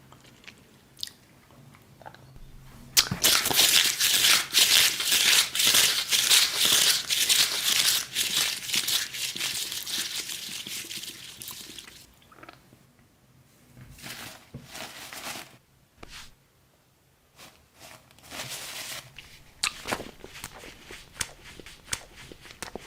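Close-miked crunching and crinkling of eating sounds. It runs densely for about nine seconds from around three seconds in, then thins to scattered crunches and clicks.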